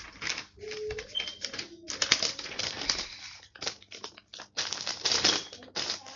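A sheet of paper being handled, folded and creased: a run of irregular rustles and crinkles.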